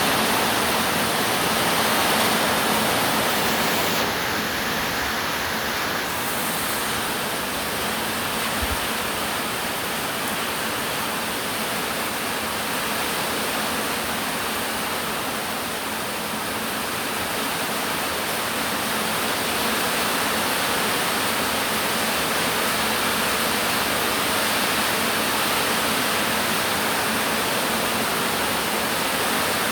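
Steady rushing of water, an even unbroken hiss, with one small low knock about nine seconds in.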